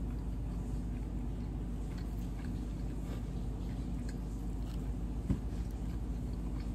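Close-miked eating: chewing and small wet mouth clicks from a mouthful of sauce-coated seafood-boil food, over a steady low hum. One sharp tap about five seconds in.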